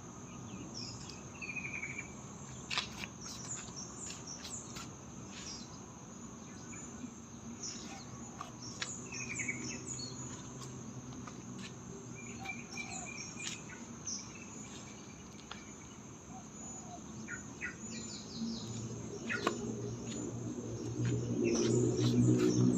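Steady high chirring of crickets, with scattered short bird chirps and calls. A louder low hum comes in near the end.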